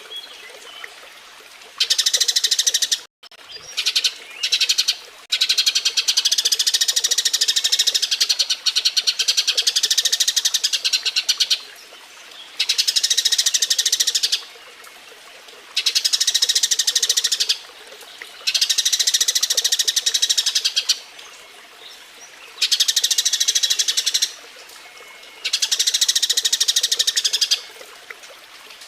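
Eurasian tree sparrows chattering their mating call: rapid trains of high chirps in bouts of a few seconds, with short pauses between.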